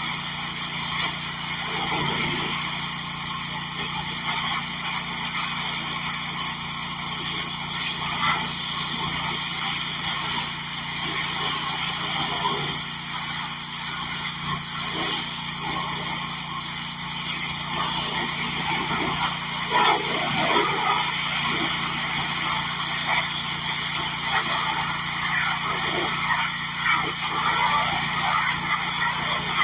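A small petrol engine on yard equipment running steadily at a constant speed, with a few short irregular sounds over it about two-thirds of the way in.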